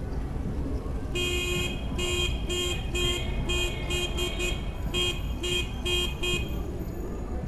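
A horn sounded in a rhythmic run of about a dozen toots, the first one long and the rest short, some in quick succession, over a steady low rumble of wind on the microphone.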